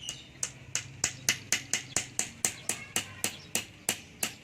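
A steady run of sharp taps or clicks, about four a second, over a faint low hum.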